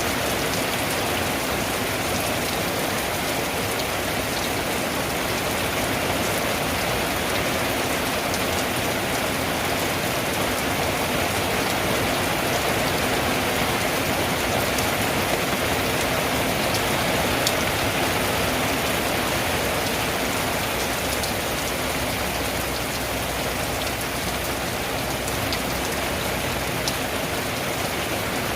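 Steady rain falling on a tin roof: a dense, even hiss with many sharp drop taps scattered through it.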